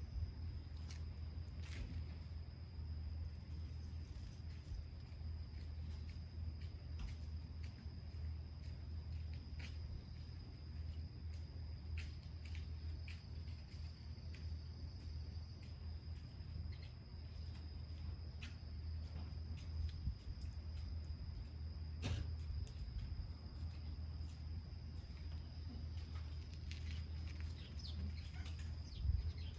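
Evening insects calling steadily: one insect's high continuous trill and another's fast pulsing chirps, over a steady low rumble, with scattered faint crackles.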